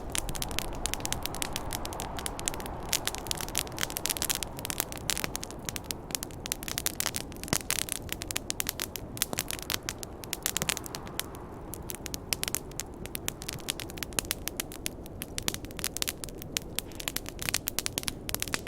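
Wood campfire crackling with a dense run of sharp pops and snaps, over a steady rushing noise of snowstorm wind that swells and eases.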